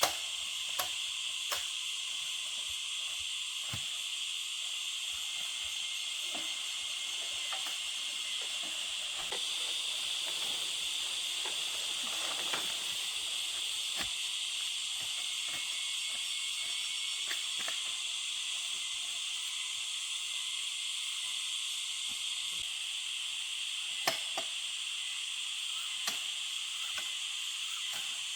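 Steady high-pitched drone of forest insects, with a few short knocks near the start and a louder one about 24 seconds in.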